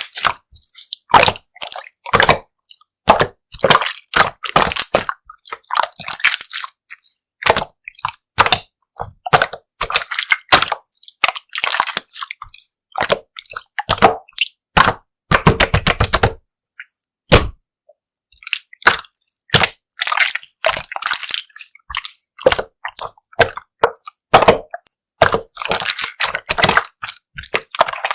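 Clear slime being squished, pressed and stretched by hand, making wet pops, clicks and crackles in irregular bursts with short silent gaps, and a quick run of clicks about halfway through.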